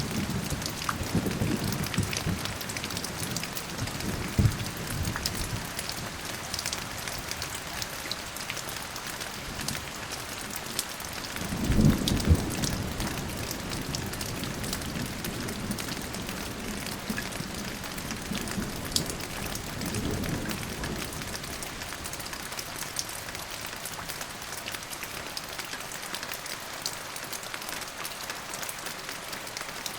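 Steady heavy rainfall pattering, with low rolls of thunder rumbling through it: a few in the first seconds, the loudest about twelve seconds in, and a softer one around twenty seconds.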